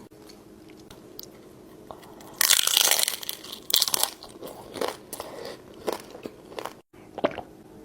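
A loud crunchy bite into a taco shell stuffed with a fried chicken tender and noodles, about two and a half seconds in, followed by quieter crunching chews.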